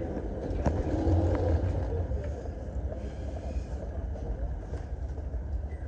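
A steady low vehicle rumble, with a sharp click about two-thirds of a second in.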